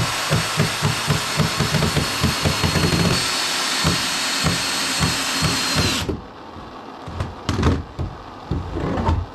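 Power drill running while fastening the wood frame, a steady whine with pulsing thumps, cutting off suddenly about six seconds in. A few separate knocks follow near the end.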